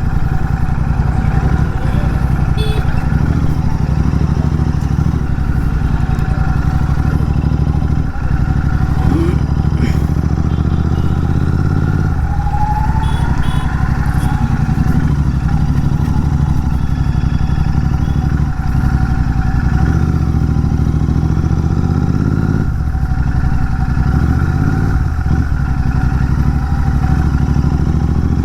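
Royal Enfield Continental GT 650's parallel-twin engine running steadily through an aftermarket AEW TE101 exhaust.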